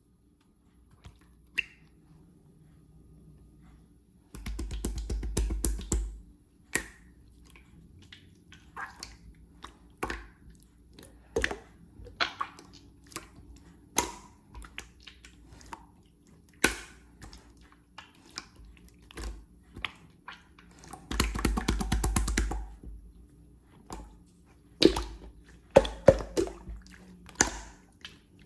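Clear slime being played with by hand: scattered sticky pops and clicks, with two runs of rapid crackling pops about two seconds long each, near the start and about two-thirds of the way in.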